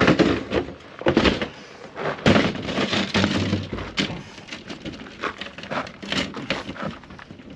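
Irregular crunching and cracking with several sharp knocks as a camp table is handled and worked on.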